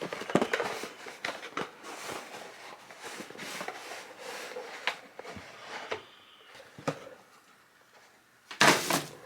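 Hands unpacking a transmission filter kit: packaging rustling with small clicks and knocks, and a louder brief crinkle near the end.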